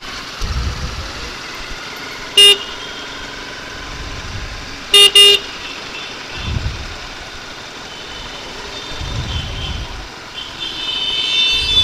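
Vehicle horn honking in three short blasts: one about two seconds in, then a quick double honk about five seconds in. Steady road noise runs underneath, with low wind rumbles on the microphone of a moving motorcycle.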